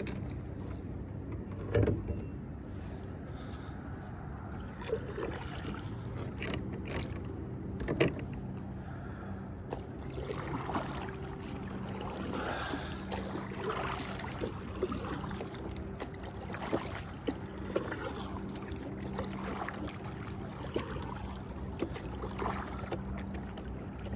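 On-the-water ambience from a fishing kayak: a steady low hum runs throughout, with a few sharp knocks on the kayak, loudest about two seconds in and again about eight seconds in.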